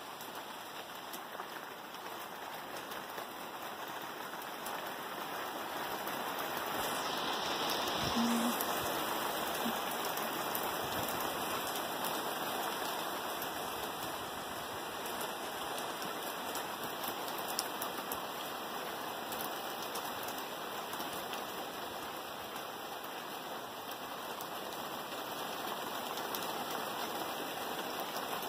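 Steady rain falling, a continuous hiss that swells a little about eight seconds in and then eases.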